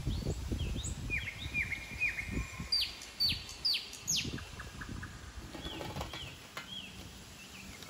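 A garden bird calling a run of short, sharp notes that slide downward in pitch, two or three a second. The notes jump higher and louder in the middle of the run and grow fainter near the end. Soft low knocks of plastic toy trucks being handled sit underneath.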